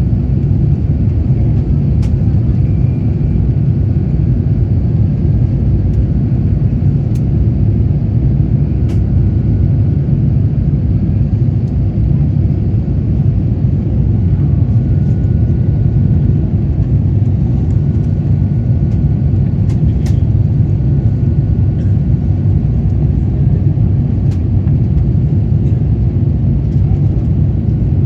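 Steady low roar of an Airbus A350-900's Rolls-Royce Trent XWB engines and rushing air, heard inside the passenger cabin during the climb, with a few faint clicks.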